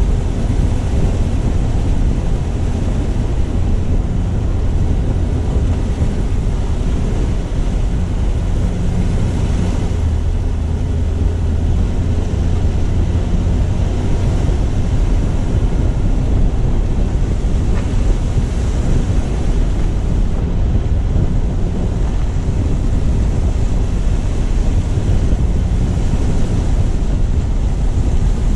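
Car driving, heard from a low-mounted action camera: a steady low rumble of tyres on the road with wind buffeting the microphone and a constant rushing hiss.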